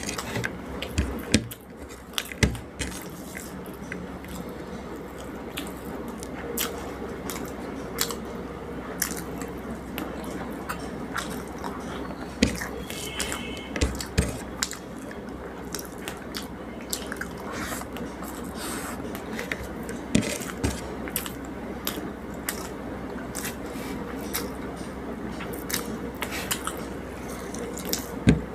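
Close-up eating sounds: a person chewing, with wet, squishy mouth sounds and many short, sharp clicks throughout.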